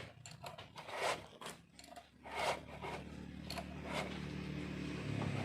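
A few short scraping and rubbing strokes, then from about two seconds in a steady low engine hum that slowly grows louder.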